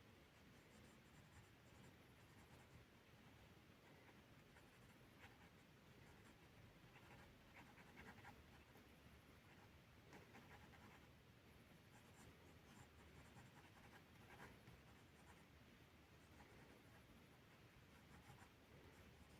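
Faint scratching of a drawing tool on paper, in short strokes that come in bursts with pauses between them.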